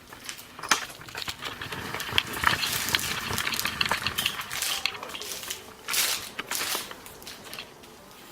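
Handling noise from the bicycle stem faceplate and its bolts being removed: scattered small metal clicks over rustling, busiest in the middle and again near the end.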